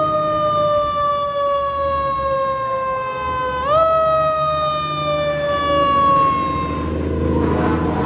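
Fire truck siren sounding a slowly falling wail that is pushed back up in pitch quickly once, about a third of the way in, then slides down again and fades. A truck engine rumbles steadily underneath.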